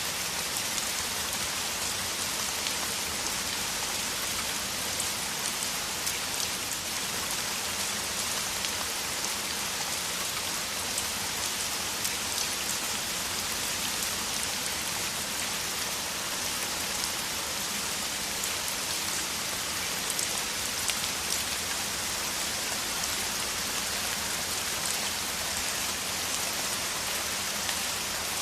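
Heavy rain (a downpour) falling steadily: a constant hiss with single drop hits flecking through it.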